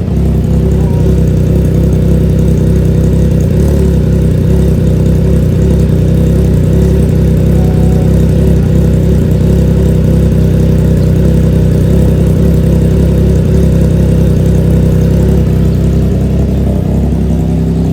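A Triumph Trident 660's three-cylinder engine idling steadily through a DRIFT XAUST full aftermarket exhaust system, with a deep bass low rumble.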